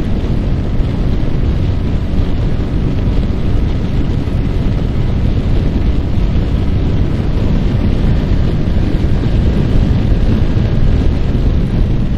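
Steady wind noise buffeting the microphone at riding speed, over the even drone of a Yamaha R15's single-cylinder engine cruising.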